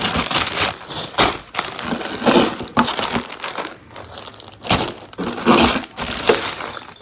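Lego set packaging being handled: plastic bags of bricks crinkling and rustling, with irregular crunches, in uneven bursts.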